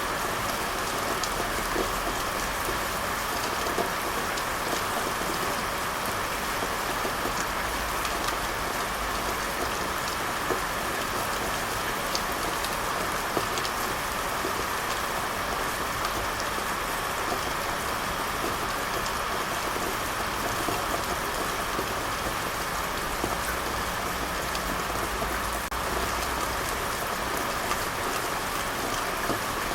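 Steady rain falling, an even hiss with scattered patter of drops hitting a surface.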